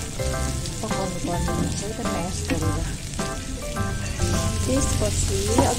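Sliced pork and vegetables sizzling as they stir-fry in a frying pan, with a melody of background music over it.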